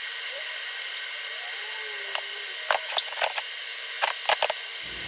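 TIG welding arc on a cast iron exhaust manifold: a steady hiss with several short clicks and crackles in the second half.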